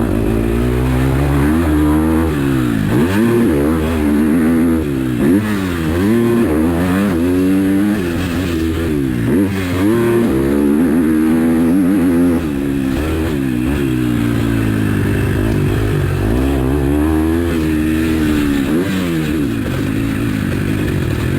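KTM 250 SX-F motocross bike's four-stroke single-cylinder engine revving hard and shutting off again and again, its pitch rising and falling every second or two as it is ridden round a dirt track.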